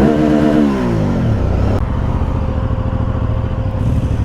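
Aprilia Dorsoduro 900's V-twin engine given a throttle blip, its revs falling back over about a second and a half, then idling steadily.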